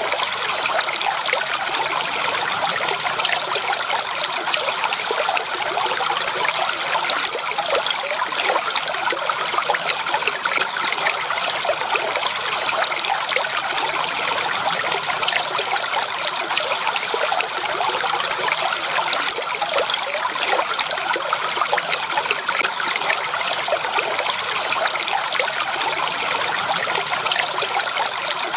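Stream water trickling and babbling steadily over stones, a dense even splashing with no pauses.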